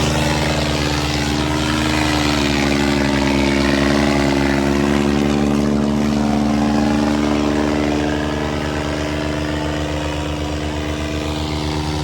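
Eicher 557 tractor diesel engines running hard and steady under load, their pitch shifting slightly about seven seconds in.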